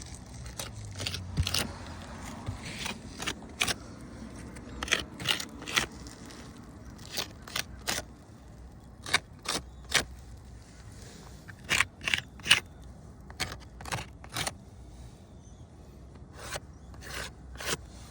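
A run of short, irregular scrapes and clicks, some in quick pairs, over a low steady background noise.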